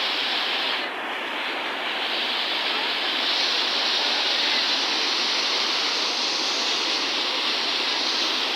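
Waterfall: a steady rush of falling water that dips slightly about a second in.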